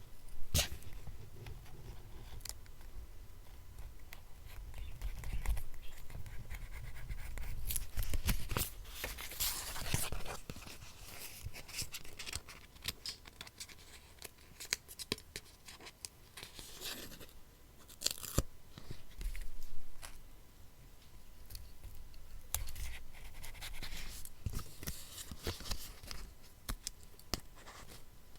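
Scissors cutting paper and sheets of paper being handled and rustled, a run of small snips and crisp rustles.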